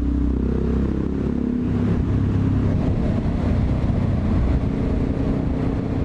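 Motorcycle engine running under way, its note shifting up and down in pitch a few times as the throttle is worked, with a hiss of wind and road noise underneath.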